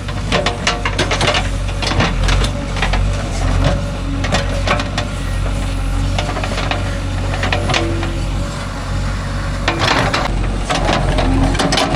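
JCB 3DX backhoe's diesel engine running steadily under load, with repeated scraping clatters and knocks from the bucket digging through soil and stones. The clatters come thickest about a second in and again near the end.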